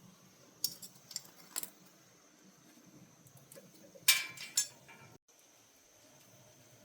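Clicks and clatter of small hard objects being handled: a few light taps about a second in, then a louder burst of clattering about four seconds in.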